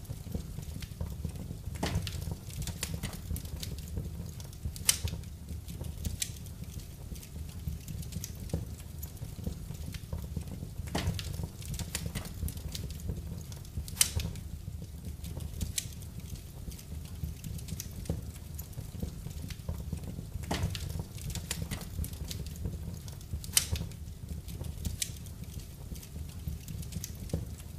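Wood fire burning in a fireplace, crackling with irregular sharp pops, a few of them louder, over a steady low rumble.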